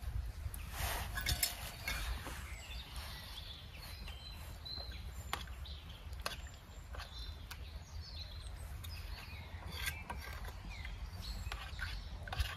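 Outdoor woodland ambience with birds chirping, a few sharp light clinks, and a steady low rumble.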